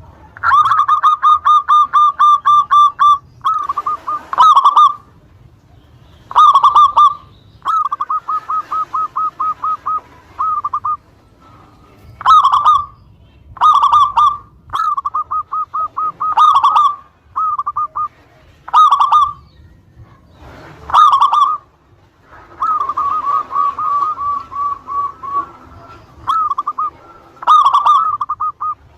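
Zebra dove (perkutut) cooing over and over: fast runs of short staccato coos, several a second, broken up by single louder coos, phrase after phrase with short pauses between.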